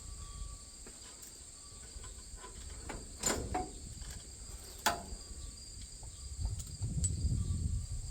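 Steady high-pitched chirring of crickets, with two sharp clicks about three and five seconds in and a low rumble near the end.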